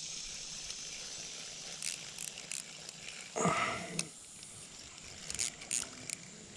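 A small bluegill being reeled in and landed: short splashes and clicks, with one louder brief splash or scuffle about three and a half seconds in, over a steady faint hiss.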